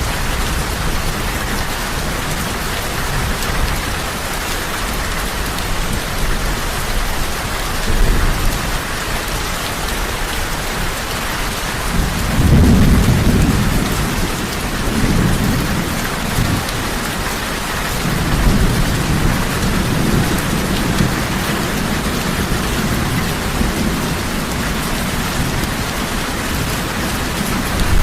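Heavy, steady rain with thunder: low rumbles roll in about eight seconds in, build loudest at about twelve seconds, and keep rumbling on and off to the end.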